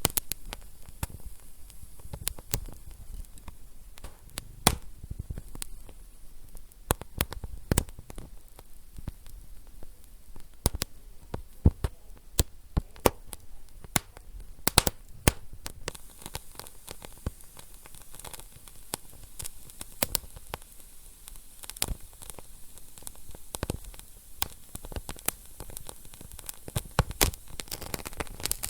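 Wood fire burning in a fireplace, crackling steadily with frequent sharp pops over a low hiss.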